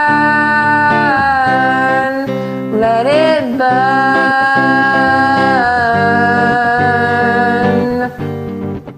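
Song outro: long wordless sung notes that step down in pitch, with a brief wavering run about three seconds in, over a guitar backing track.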